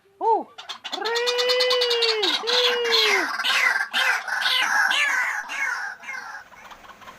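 White-breasted waterhen calling: a short yelp, then two long, arched, cat-like wails, then a fast run of harsh repeated notes that fades near the end.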